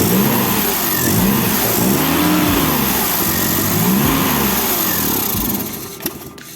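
Maruti Omni's small three-cylinder petrol engine, fed by a Hero Impulse motorcycle carburettor, running and being revved up and down several times. It dies away near the end.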